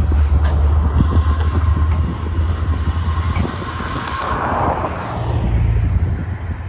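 Train running past: a heavy low rumble with scattered clicks from the wheels, a thin steady whine for the first few seconds, and a swell of hiss about four seconds in.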